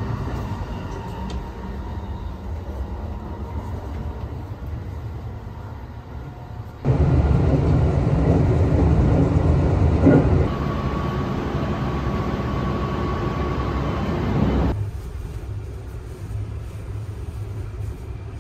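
Sunrise Express sleeper train running, heard from inside the car as a steady low rumble. It turns abruptly much louder and fuller for about eight seconds in the middle, with a faint steady whine in the later part, then drops back to the quieter rumble.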